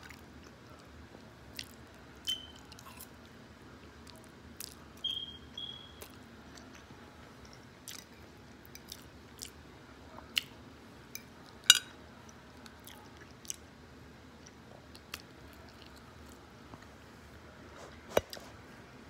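Close-up chewing and mouth noises of a person eating: wet smacks and scattered sharp clicks, with a loud click about twelve seconds in and another near the end.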